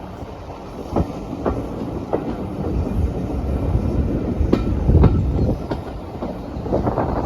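Passenger train running along the line: a steady rumble with irregular clicks and knocks of the wheels over rail joints.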